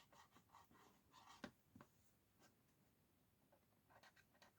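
Near silence with a few faint taps and light scratching from a tablet being handled, two small clicks about a second and a half in.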